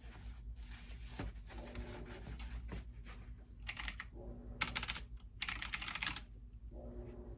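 Typing on a computer keyboard: scattered single keystrokes, then three quick runs of rapid keystrokes from about three and a half to six seconds in.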